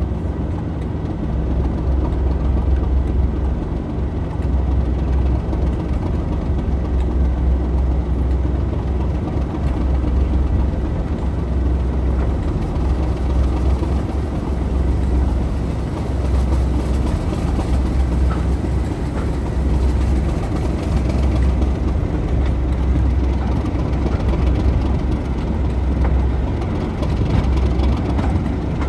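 A train running, with a steady low rumble and a constant engine hum.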